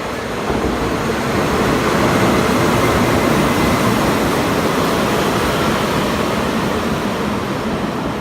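A train rolling through the station close by, its rumble and wheel noise swelling about half a second in and then slowly easing.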